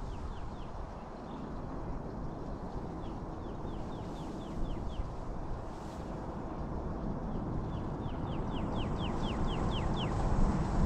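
A bird calling in rapid runs of short, falling chirps: a few at the start, a run of about eight a few seconds in, and a longer, louder run near the end. Steady low background noise lies underneath.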